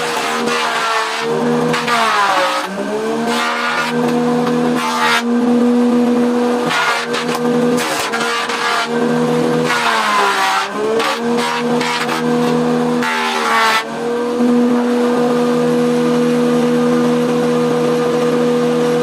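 Bandsaw running with a steady motor hum while its blade cuts through hardwood, the cutting noise rising and falling in surges. Twice the motor's pitch sags briefly and recovers as it loads up in the cut.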